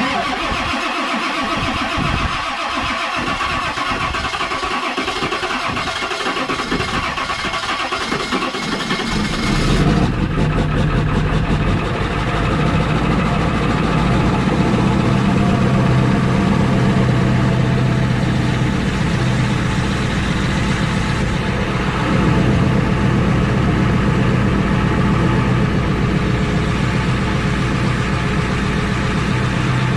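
Ford 7.3 Powerstroke V8 turbodiesel idling while it warms up after a cold start. It runs unevenly for the first nine seconds or so, then settles into a steadier, louder drone.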